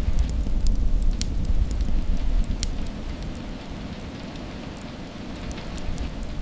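Steady rain falling, with many separate drops ticking sharply over the general patter. Under it runs a deep low rumble that eases off after about four seconds and builds back up near the end.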